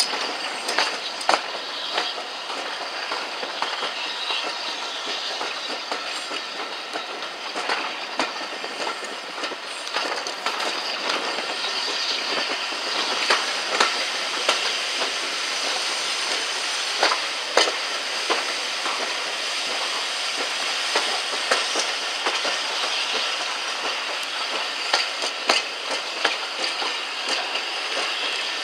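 Coaches of a steam-hauled train running, heard from an open carriage window: a steady rolling noise with the wheels clicking irregularly over the rail joints.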